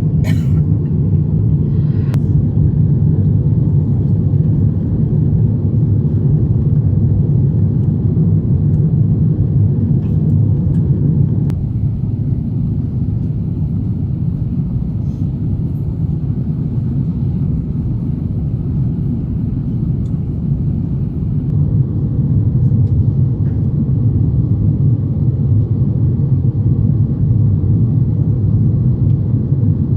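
Steady low rumble of engine and airflow noise heard inside the cabin of an Airbus A350-900 in flight, powered by Rolls-Royce Trent XWB engines. It is a little quieter through the middle, with a few faint clicks near the start.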